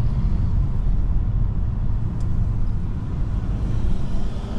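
Steady low rumble of a car driving along, engine and tyre noise heard from inside the moving car.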